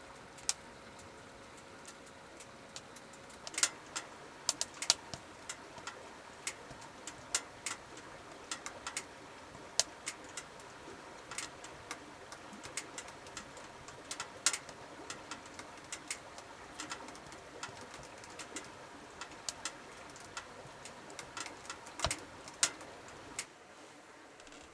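Wood fire crackling, with sharp irregular pops and snaps from the burning firewood over a soft steady hiss.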